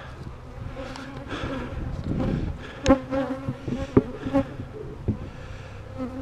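Honeybees buzzing around an opened hive as a steady hum, with a few sharp knocks about three, four and five seconds in.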